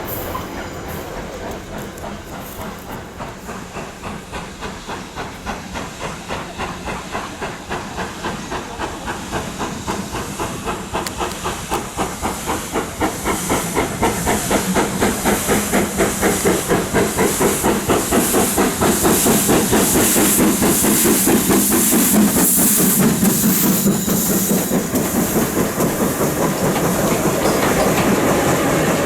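Steam locomotive working, its exhaust beats coming in an even rhythm with hissing steam. It grows steadily louder over the first two-thirds, then holds.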